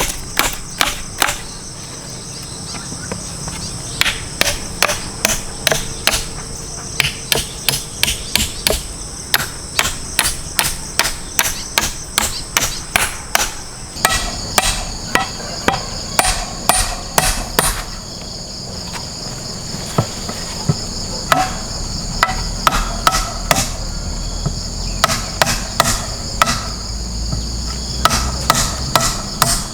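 Hammer blows, about three a second, in runs separated by short pauses, likely driving nails in building work. Insects chirr steadily and high-pitched underneath.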